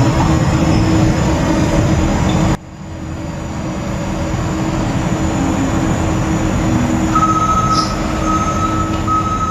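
Heavy truck engines running hard under load, with a sudden change to a different engine sound about two and a half seconds in. A steady high-pitched whine joins over the last couple of seconds.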